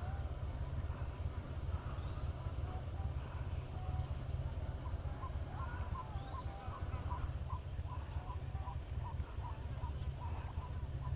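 Steady high, pulsing insect trill over a low rumble. From about halfway through, a bird calls in short repeated notes, about two a second.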